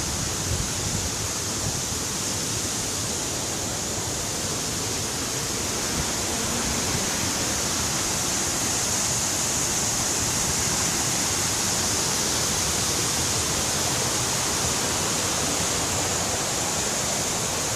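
Steady rush of falling water, even and unbroken, with a bright hiss on top.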